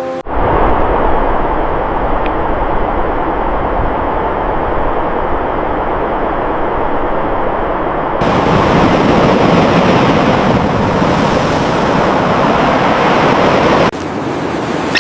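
Loud, steady roar of breaking surf and rushing seawater. It grows louder and hissier about eight seconds in and cuts off abruptly about a second before the end.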